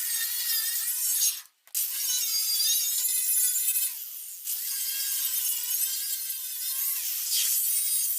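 Angle grinder working rust off steel car bodywork: a loud, hissing grind over a motor whine that wavers in pitch as the load changes. It cuts out suddenly for a moment about one and a half seconds in, and eases off briefly around four seconds in.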